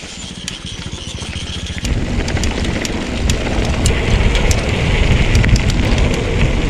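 Mountain bike rolling along a dirt trail: a rushing noise of tyres and wind on the microphone that builds up about two seconds in, with scattered sharp clicks and rattles.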